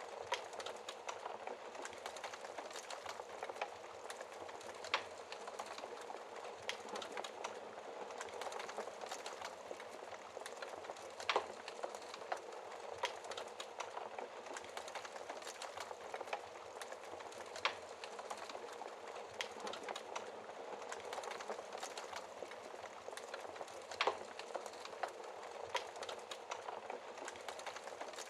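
Logs burning in a fireplace: a steady crackle and hiss of many small snaps, with four louder sharp pops about six seconds apart.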